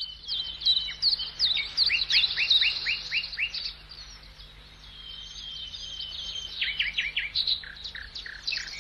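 Songbirds singing: a string of quick high chirps, with two runs of about five sharp downward-sweeping notes at an even pace, one early and one in the last third, and a quieter spell in between.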